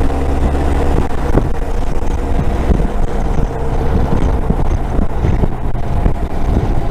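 Motorcycle riding along a highway: the engine runs at a steady cruise under a heavy wash of wind noise on the rider's microphone, with frequent low buffeting thumps.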